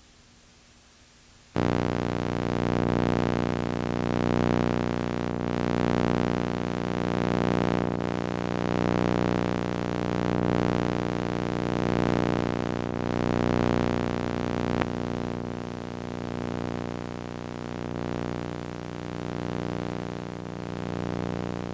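Synthesizer music: a sustained chord that starts suddenly about a second and a half in, swells and fades about every one and a half seconds, and cuts off abruptly at the end.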